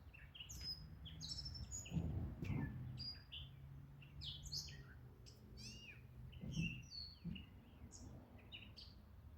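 Small songbirds chirping, with many short high chirps and twitters following one another, over a faint low hum. A few soft low thumps can be heard about two seconds in and again near two-thirds of the way through.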